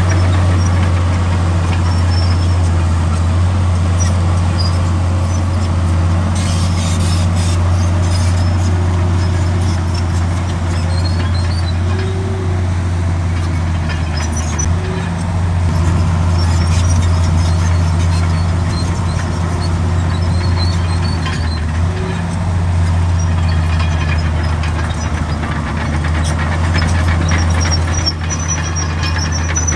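Heavy diesel earthmoving machinery running steadily, a deep continuous engine note with scattered high-pitched squeaks over it.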